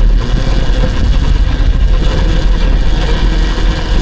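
Wind buffeting the microphone and tyre noise from riding an electric dirt bike, a loud steady rumble with a faint steady whine above it.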